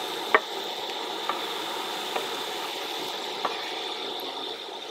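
Sliced sausage sizzling as it is pushed onto a hot Skottle steel disc griddle, a steady frying hiss. Four sharp clicks of the knife scraping the pieces off a wooden cutting board break through it, the loudest about a third of a second in.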